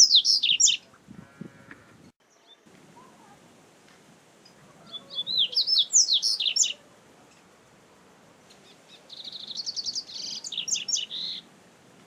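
Double-collared seedeater (coleiro) singing three fast twittering phrases of high whistled notes that sweep up and down. One phrase finishes just at the start, another comes about five seconds in, and the third, about nine seconds in, opens with a rapid run of repeated notes.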